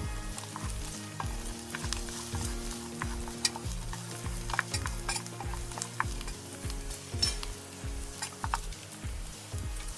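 Food sizzling as it fries and is stirred in a pan, with scattered sharp clicks and scrapes, over background music with a steady beat.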